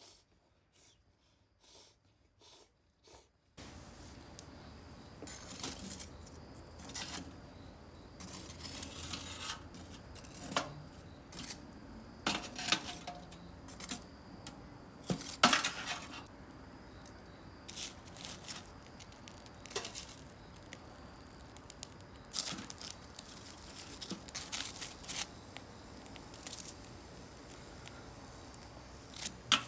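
Scattered clinks, taps and rustles from handling cooking gear and food at a charcoal grill, over a steady outdoor background.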